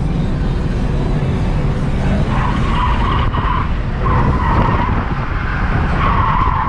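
A car drifting: the engine runs hard throughout and the tyres squeal three times, from about two seconds in, around four seconds in, and again from about six seconds on.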